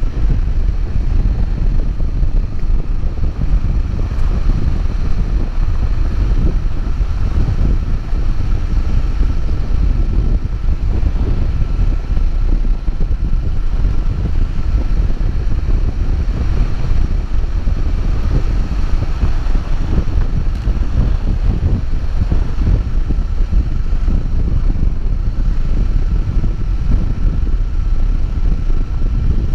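Steady wind rumble on the microphone over a vehicle running at a constant pace while travelling, with a faint steady whine in the background.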